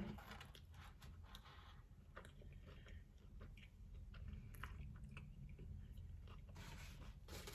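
Faint close-up chewing of a taco: soft wet mouth clicks and crunches scattered through, a little louder near the end, over a steady low room hum.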